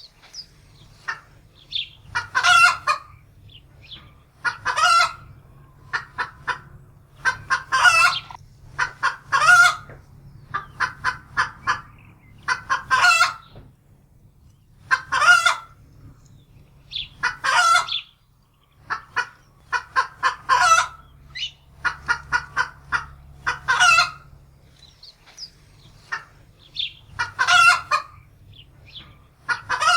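Domestic hen cackling in alarm, as a frightened hen does after sighting a predator: repeated runs of short clucks that build into long, loud squawks, one run about every two seconds.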